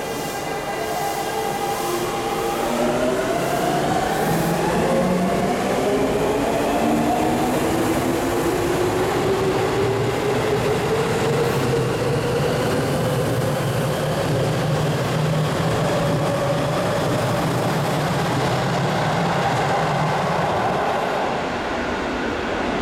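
Seibu 6000 series electric train pulling away from the platform: its inverter and traction motors give several whining tones that climb in pitch over the first ten seconds or so, over a steady rumble of wheels on rail.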